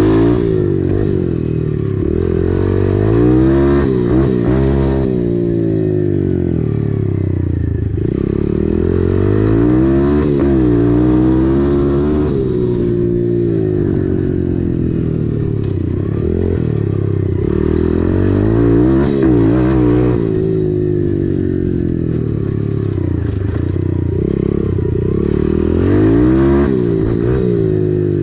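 Dirt bike engine being ridden along a trail, its revs repeatedly climbing and dropping as the rider opens the throttle and shifts gears, with some clattering from the bike over rough ground.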